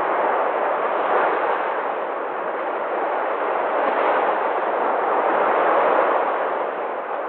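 Sea surf washing on a shore, a steady rush of water that swells and eases every couple of seconds.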